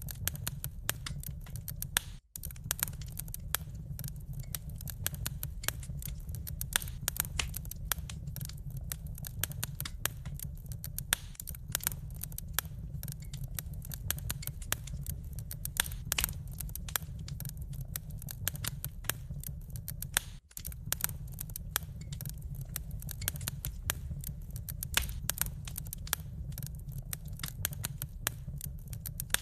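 Wood fire crackling, with dense, irregular pops and snaps over a steady low rumble of the flames. The sound cuts out for a split second twice, about two seconds in and again about twenty seconds in.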